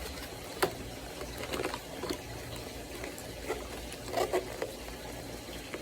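Action-figure box and plastic packaging being handled and pulled open: scattered short crinkles and clicks over a low steady hum.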